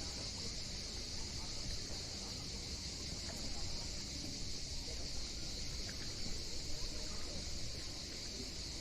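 Sea waves washing steadily, with a constant high-pitched drone of summer insects over them.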